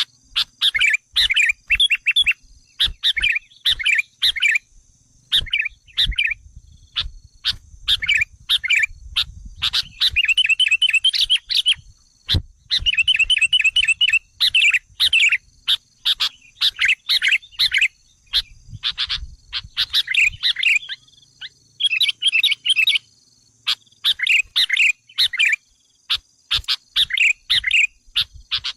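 Sooty-headed bulbul (kutilang) calls: quick chattering phrases repeated over and over, with short rapid trills, an agitated lure call meant to provoke wild bulbuls. A faint steady high-pitched tone runs underneath.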